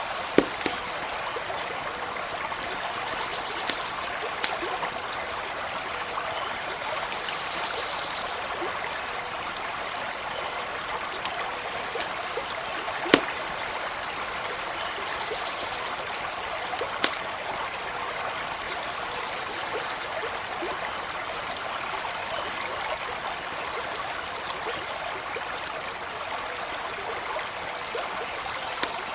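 A stream running steadily over stones, with scattered sharp pops of a campfire crackling, the loudest about halfway through.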